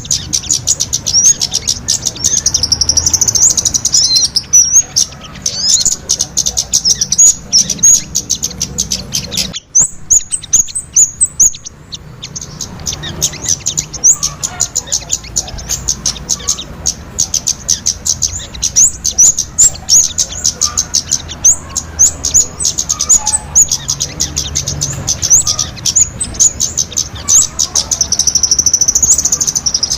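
Small-bird lure call (suara pikat): a dense run of rapid, high-pitched chirps and short trills, nearly continuous, with a brief gap about ten seconds in.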